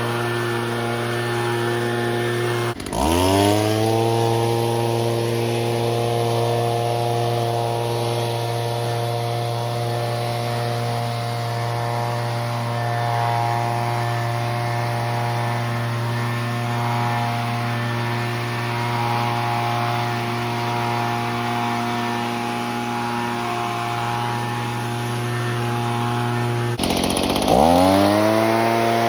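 Stihl BG50 handheld leaf blower's 27.2 cc two-stroke engine running at steady full throttle. Twice, about three seconds in and near the end, the pitch drops away and quickly revs back up to full speed.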